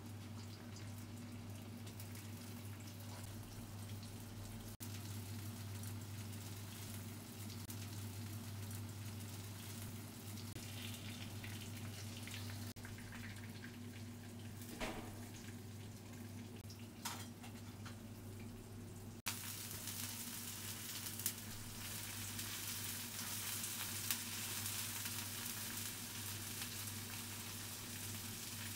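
Tofu and chopped onion sizzling in oil in a wok, with a few sharp clicks of tongs against the pan. After a cut, the sizzle is louder as broccoli, carrots and cauliflower are stir-fried. A steady low hum runs underneath.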